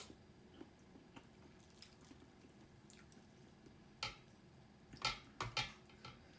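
Close-up eating sounds: wet chewing and mouth smacks while eating millet dhido with chicken curry, mostly soft, with a cluster of sharper smacks about four to six seconds in.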